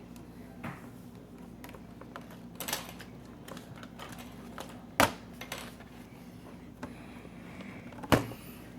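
Small clicks and taps of laptop plastic parts and screws being handled, with two sharp knocks, one about five seconds in and one about eight seconds in, over a steady low hum.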